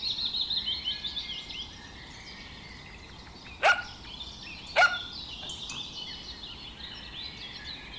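Birds singing, a busy chorus of high chirps and trills. Two loud, short, sharp calls rising in pitch come about a second apart near the middle.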